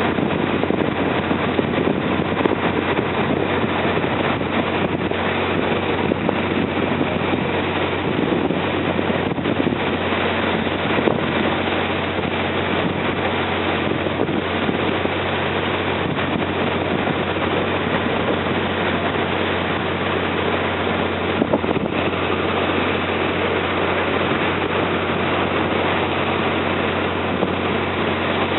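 Slow riverboat's engine running steadily underway: a constant low drone over an even rushing noise, with no change in speed.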